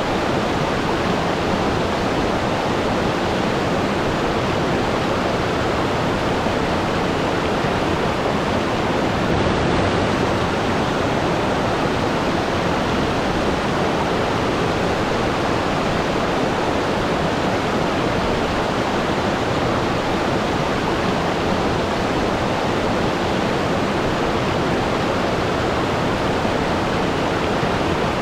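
Waterfall: water falling steadily in an even, unbroken rush.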